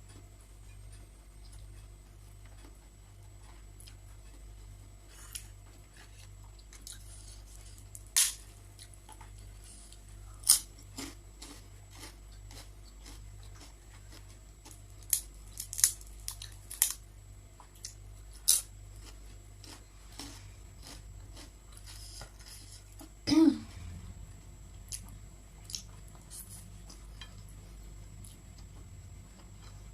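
Close-miked eating: quiet chewing with scattered sharp, short crunches or clinks, and one louder, duller knock near the end, over a steady low hum.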